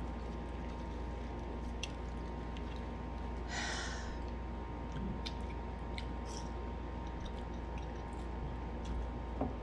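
Mouth sounds of eating fried chicken: chewing with scattered small clicks, and a short hiss about three and a half seconds in, over a steady background hum.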